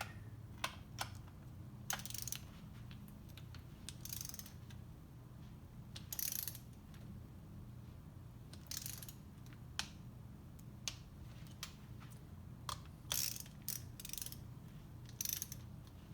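Ratcheting torque wrench run in short bursts with single clicks in between, as case bolts are tightened to a first pass of 10 foot-pounds.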